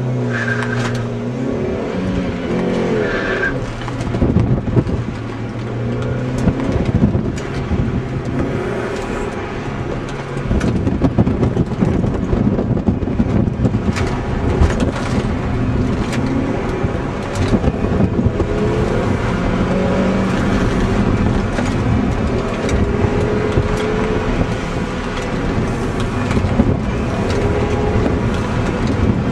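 2005 MINI Cooper's 1.6-litre four-cylinder engine heard from inside the cabin, its pitch rising and falling as it is driven hard through an autocross course, with brief tyre squeals in the first few seconds.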